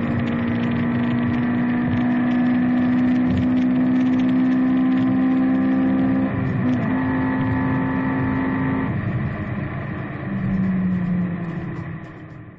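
Honda Civic EG6's B16A VTEC four-cylinder engine running hard at high, steady revs. About six seconds in the pitch wavers briefly, and after about nine seconds the revs drop and the sound fades near the end.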